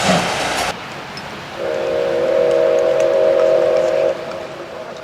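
Steam whistle of the SL Ginga's C58 steam locomotive blowing one steady, chord-like blast of about two and a half seconds, starting about a second and a half in. Before it, a loud rushing hiss cuts off abruptly in the first second.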